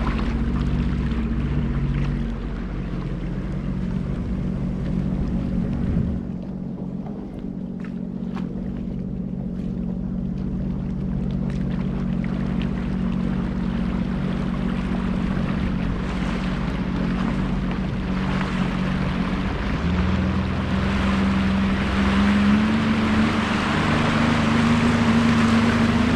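Sea-Doo Explorer Pro 170's Rotax three-cylinder engine running under way during its break-in hours, over the rush of water. The engine eases off about two seconds in and again around six seconds. From about twenty seconds on it climbs in pitch as the throttle opens and the water noise grows.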